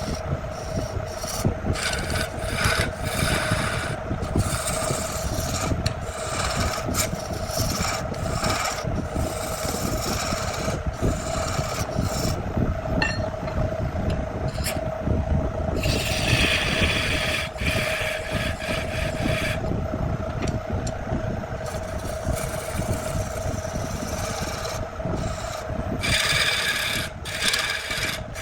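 An electric power tool's motor humming steadily while an abrasive surface rasps against wood in uneven strokes, turning harsher and brighter for a few seconds about halfway through and again near the end.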